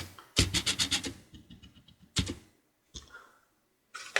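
A quick run of light clicks and taps from small parts being handled inside an opened laptop, fading over about a second, then a single tap about two seconds in.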